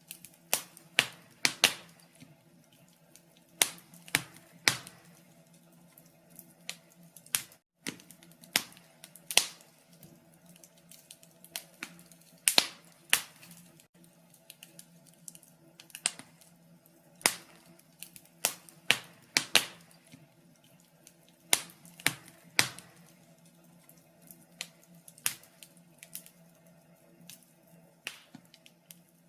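Wood fire crackling in a fireplace: irregular sharp pops and snaps, some loud and in quick clusters, over a faint steady low hum.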